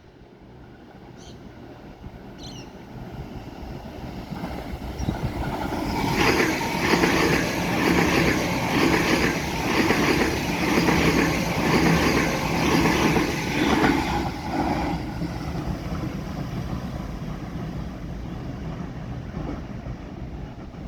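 A train approaching and passing. Its rumble swells over the first few seconds and is loudest from about six to fourteen seconds, with a regular pulse about once a second. It then eases back to a steady, quieter rumble.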